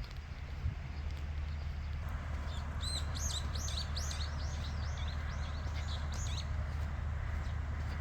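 A small bird singing a quick run of high, arched chirping notes for about four seconds, over a steady low hum.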